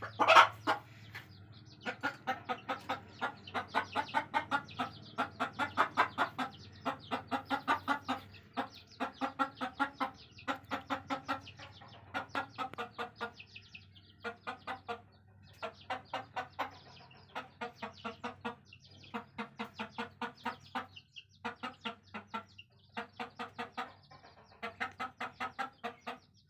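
A hen clucking in long, rapid runs of short clucks, about five or six a second, with brief pauses between runs. A single louder, sharper sound comes right at the start.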